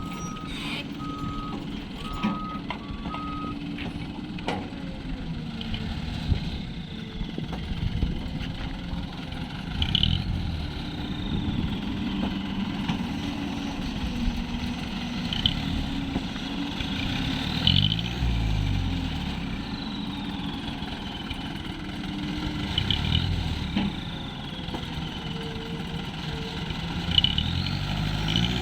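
A soil-hauling truck's engine running and revving up and down, with its reversing alarm beeping steadily for the first few seconds.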